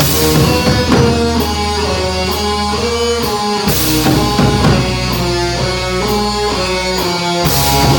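Heavy metal band playing: electric guitar riff over bass and a drum kit, with cymbal crashes about four seconds in and near the end.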